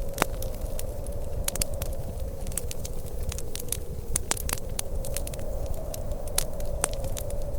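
Wood fire crackling, with frequent sharp, irregular pops over a steady low rumble and a faint steady hum.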